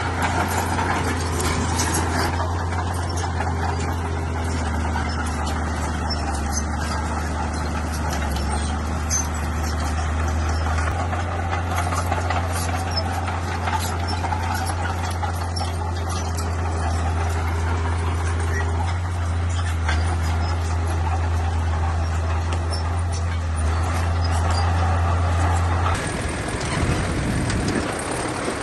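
Bulldozer at work: its diesel engine drones steadily under load, with scattered clanks and squeals from the tracks. The low drone breaks off near the end and the sound changes.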